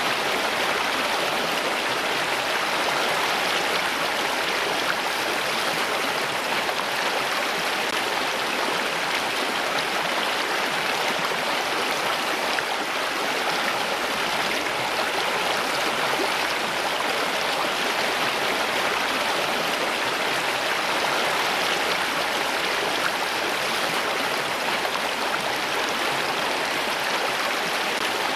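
Running water, like a stream, flowing steadily and evenly with no breaks or changes.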